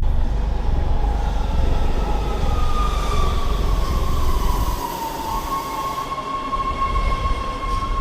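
A New York City 6-line subway train ride heard from on board: a heavy rumble with a high whine that falls in pitch, then holds steady as the rumble drops away about five seconds in, typical of the train slowing.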